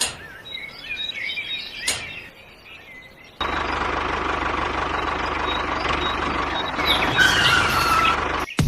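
Birds chirping, with a couple of clicks. About three seconds in, a small motor starts abruptly and runs steadily with a low hum.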